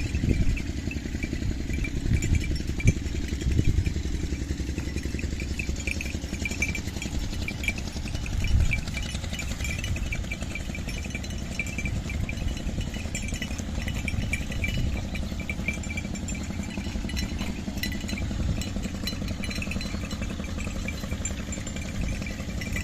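A small engine running steadily, with a fast light ticking high above it.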